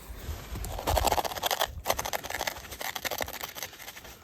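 Rapid gritty scratching and scraping: a mix of potassium permanganate and sugar being rubbed to make it ignite, without any reaction.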